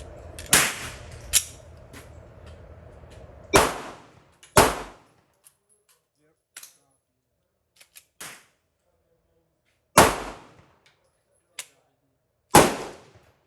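Semi-automatic pistol shots: about six loud single shots at uneven intervals, a second or more apart, with a few fainter shots between them.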